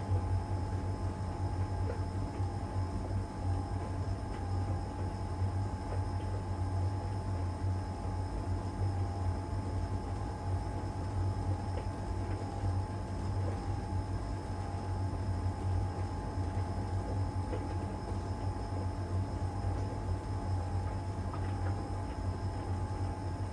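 LG heat pump tumble dryer running steadily in its drying phase: a low, even hum of the heat pump and fan with the drum turning, and a steady whine over it.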